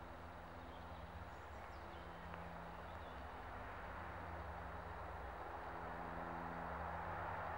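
Distant train approaching on the line, its rumble growing steadily louder, with a few faint bird chirps in the first half.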